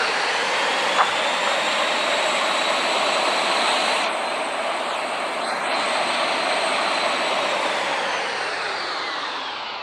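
Jet airliner passing, its engines a steady loud rush with a faint high whine; the sound fades near the end.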